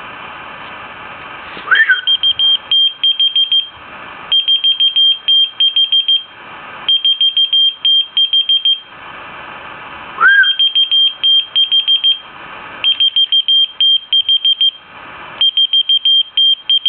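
A short rising whistle sets off a whistle-activated key-finder keychain, which answers with three runs of rapid, high-pitched beeps. About halfway through, a second whistle sets it off again for another three runs of beeps.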